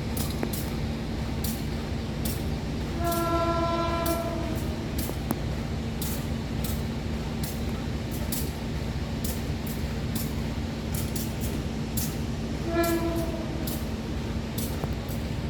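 Diesel locomotive idling with a steady low rumble, sounding its horn twice: a blast of about a second and a half about three seconds in and a shorter toot near the end.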